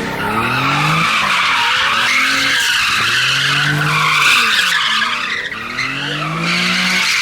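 A car sliding in circles with its tyres squealing and smoking steadily, the engine revving up and falling back about every two seconds as it goes round.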